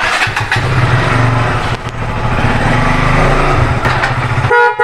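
KTM Duke motorcycle engine idling steadily while the bike stands still, with a short dip in its sound about three and a half seconds in and a brief break near the end.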